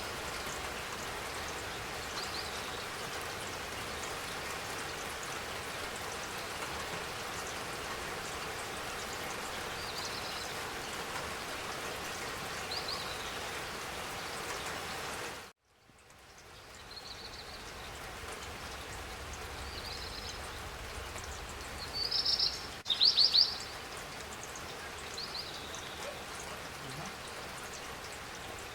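Steady spring rain hiss, with a bird giving short chirps every few seconds. About halfway through, the rain cuts out abruptly and fades back in, and a couple of louder chirp bursts follow soon after.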